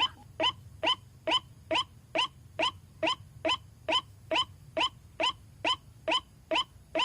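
White-breasted waterhen calling: a short, sharply rising note repeated steadily, a little over two a second, the monotonous 'ruak-ruak' call.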